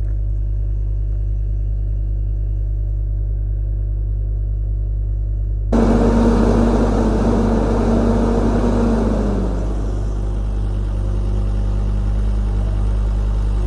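A vehicle engine idling steadily. About six seconds in, a louder mechanical whir with a rushing noise starts; its tone drops away a few seconds later and the hum carries on.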